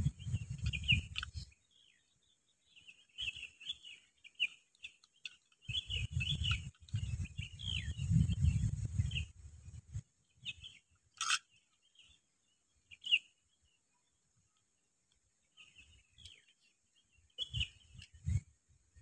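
Small birds chirping and calling in short repeated notes, with two spells of low rumbling noise in the first half and a single sharp click a little past the middle.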